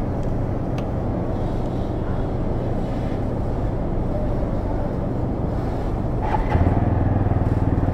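TVS Apache RTR 200 4V's single-cylinder engine idling while it warms up after a wash. It grows louder and fuller about six and a half seconds in.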